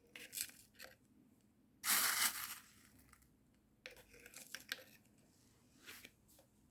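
Small grains of potting material poured and tapped into a small plastic container, filling the gaps between the orchid stones. There are scattered light clicks and rattles, with a longer gritty rustle of pouring about two seconds in.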